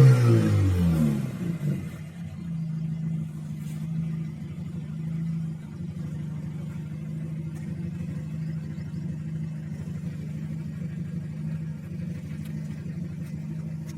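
Audi 100 C3's 1.8-litre four-cylinder engine running through a straight-through exhaust with a Buzzer rear muffler: the revs fall back from a blip in the first second or two, then it settles into a steady idle with a low, even drone.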